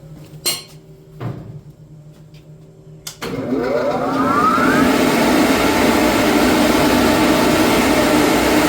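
A couple of light knocks over a low steady hum, then about three seconds in an electric blower motor switches on: its whine rises in pitch over about a second and a half as it spins up, then it runs steadily and loudly with a rush of air.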